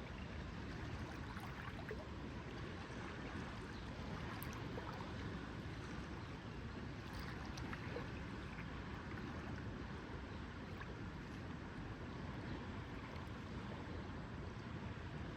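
Lakeside ambience: small water lapping steadily, with faint scattered small ticks.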